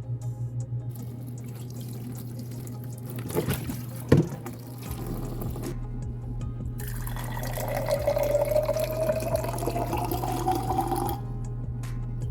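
Water running from a tap, with a tone that slowly rises as a container fills, cutting off suddenly about eleven seconds in. A few knocks come about three to four seconds in, over steady background music.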